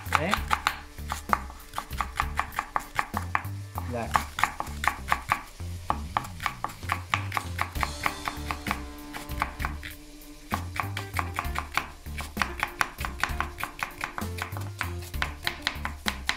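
Knife chopping leek very finely on a cutting board: a fast, even run of strokes, about four to five a second, pausing briefly twice. Background music with a bass line plays underneath.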